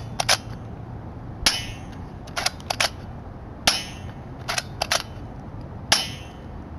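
Low-powered airsoft Uzi firing single shots: three sharp pops about two seconds apart, each followed by two quick clicks.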